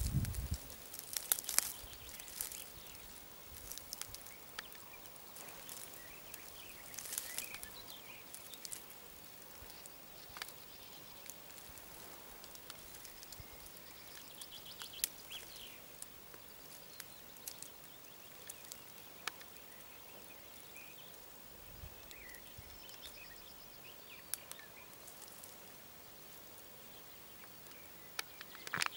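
Faint quiet riverside outdoor ambience, with a few short bird chirps now and then and scattered light clicks and rustles.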